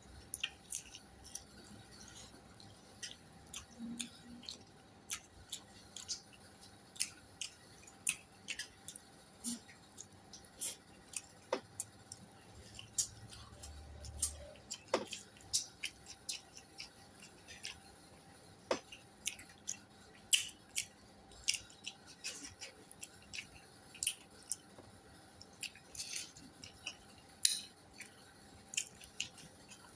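Close-up eating sounds: irregular quick clicks and smacks of a person chewing food, many a second at times.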